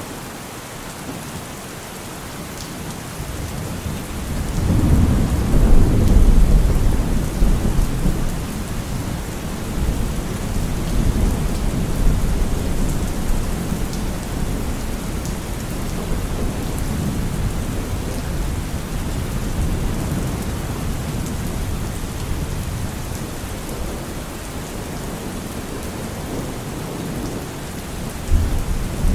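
Steady rain with rolling thunder. A deep rumble builds about four seconds in, is loudest a couple of seconds later and keeps rumbling under the rain, and another roll starts near the end.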